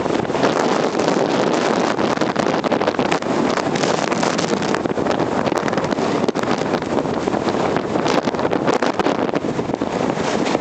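Strong blizzard wind rushing steadily and buffeting the microphone, with small crackles throughout.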